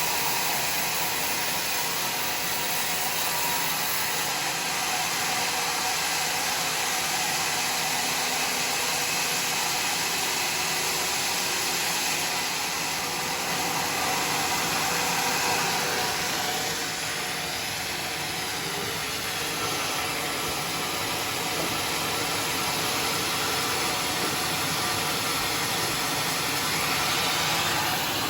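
Sawmill running with a steady, even noise and a slight dip in loudness about two-thirds of the way through.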